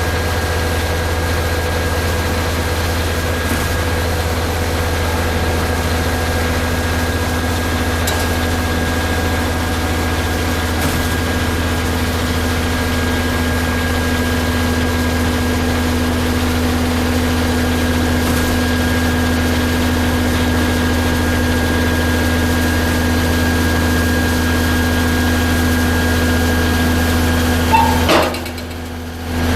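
Concrete pump truck's engine running steadily, a constant drone with a strong low hum. Near the end there is a brief knock, and the sound drops for about a second before coming back.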